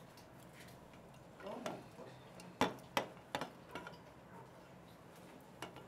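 Four sharp taps or clicks about every half second, the first two loudest, after a faint murmur of a voice.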